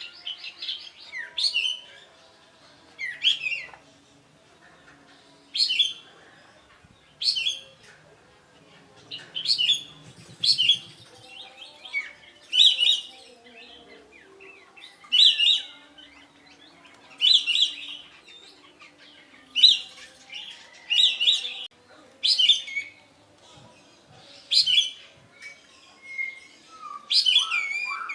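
A kapas tembak songbird singing loud, short, sharp whistled phrases, one every second or two. The song is laced with imitations of oriental magpie-robin and white-rumped shama. Near the end comes a longer, lower warbling phrase.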